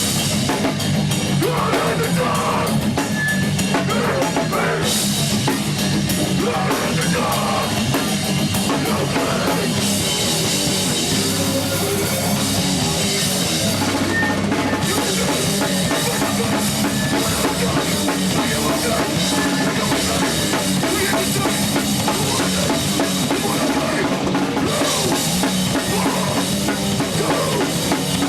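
Heavy rock band playing live: distorted guitars and bass over a pounding drum kit, loud and unbroken, captured on a VHS camcorder's microphone.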